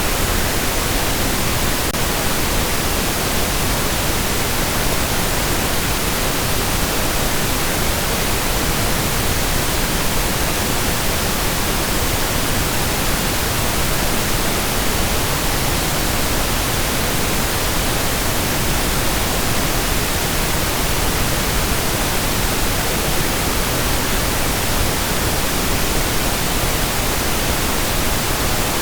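Steady synthetic pink noise: an even, unchanging hiss across the whole range, softer in the highs than white noise.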